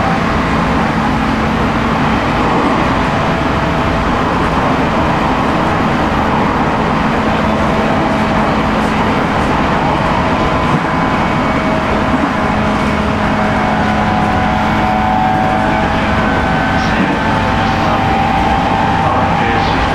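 Cab-side running sound of a 719 series 5000-subseries electric multiple unit at speed: a steady roar of wheels on rail, with the whine of its MT61 traction motors and gears (thyristor phase control) running through it as thin steady tones.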